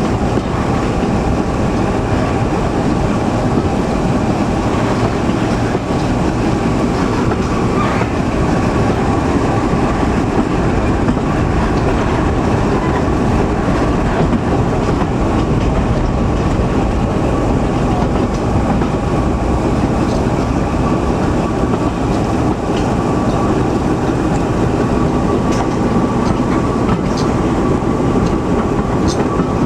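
Train carriage running steadily along the line behind BR Class 14 diesel-hydraulic locomotive D9551: a continuous rumble of wheels on rail, with a faint steady whine throughout.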